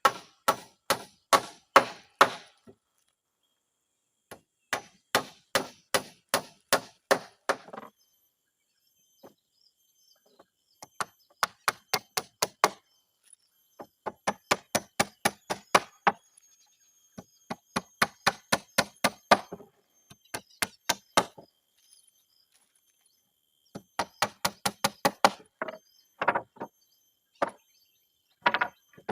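Hammer driving nails into wooden floor boards: runs of quick sharp strikes, about four a second, broken by short pauses.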